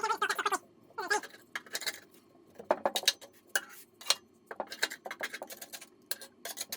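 A cat meowing twice in the first second or so, amid a run of irregular clattering clicks and scrapes.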